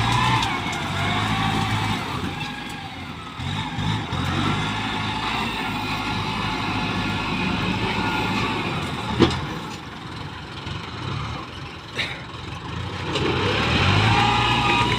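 Tractor engine running, its level sagging in the middle, with two sharp knocks: one about nine seconds in and another about twelve seconds in.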